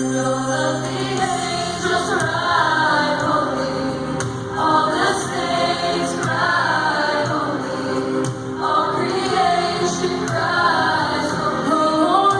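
A choir singing a gospel song over sustained accompaniment, in phrases a few seconds long.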